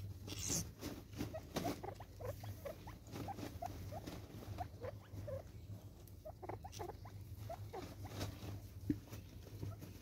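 Birds at a seed feeder: many soft, short chirps and light ticks scattered throughout, over a faint steady low hum.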